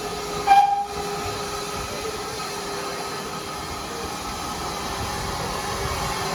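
Steam locomotive with a short, sharp whistle toot about half a second in, then a steady hiss and rumble of the train.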